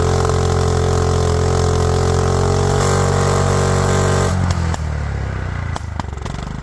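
Riding lawnmower engine running steadily. About four seconds in, its note changes and it runs quieter, with a few sharp clicks.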